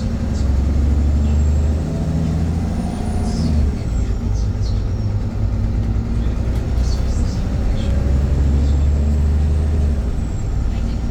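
VDL Pulsar single-deck bus running under way, its engine drone rising and falling in steps. A faint high whine swells and fades twice, with scattered light rattles.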